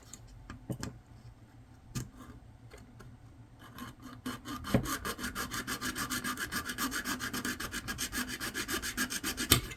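Hand tool cutting through the plastic of an SD card reader with rapid back-and-forth scraping strokes, about ten a second, starting about four seconds in after a few light clicks and knocks. A sharp click near the end.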